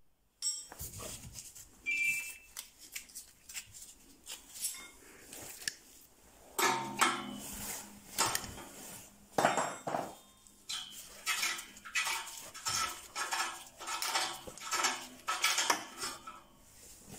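Irregular metallic clinks, knocks and scrapes of hand tools on an exhaust pipe as a lambda (oxygen) sensor after the catalytic converter is unplugged and unscrewed.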